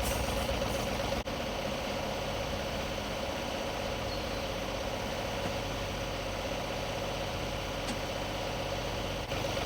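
Tractor engine running steadily at an even pitch while it lifts and tows a broken riding lawnmower on a chain from its front loader bucket.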